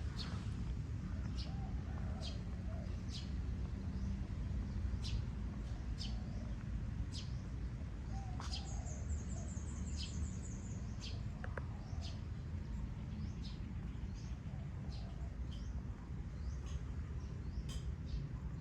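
A bird chirping again and again, short high calls about once a second, with a brief high trill a little before the middle, over a steady low background rumble.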